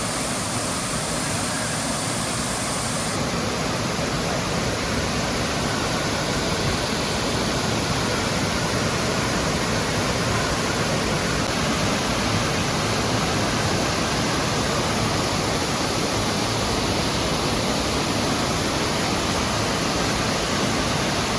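Waterfall pouring into its pool: a steady, even rush of falling water with no let-up.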